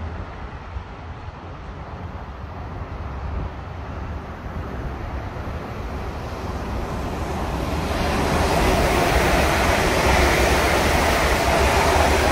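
Class 360 electric multiple unit approaching and passing at speed: a rushing noise of wheels on rails that builds over several seconds and is loudest in the last four seconds.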